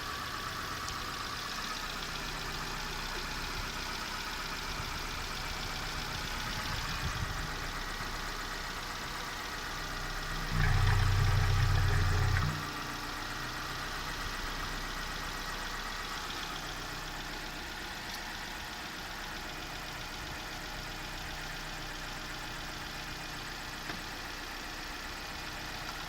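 Mazda B3 1.3-litre inline four-cylinder engine idling steadily. About ten seconds in it runs louder and deeper for about two seconds, then settles back to idle.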